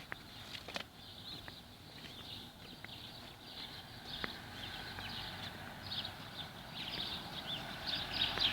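Dawn chorus of many small birds chirping in dense, overlapping short high calls that grow busier toward the end, with a few faint clicks.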